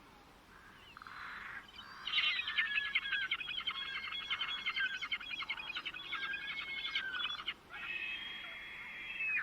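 A songbird singing: after a quiet start, a long rapid chattering warble of quick notes from about two seconds in, then a smoother held whistle near the end.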